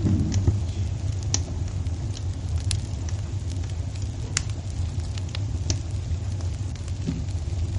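Wood fire burning in a fireplace: a steady low rumble of flames with scattered sharp crackles and pops, a few seconds apart.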